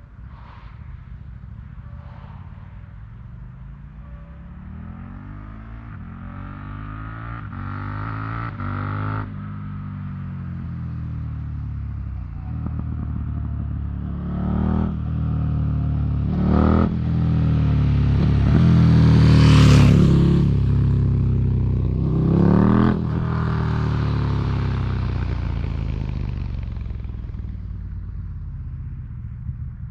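KTM 1290 Super Duke R's V-twin engine through an Austin Racing V3 slip-on exhaust, accelerating hard through several gears. The pitch climbs and then drops at each shift. It grows louder to a peak about two-thirds of the way through, then fades.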